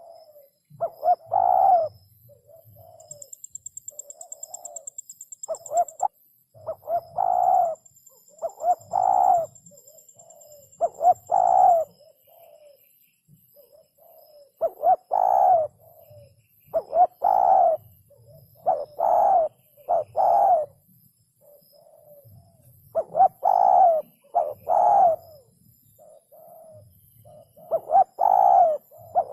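Spotted dove cooing: low, throaty coo phrases repeated every two seconds or so. A thin high trill sounds faintly behind it during the first third.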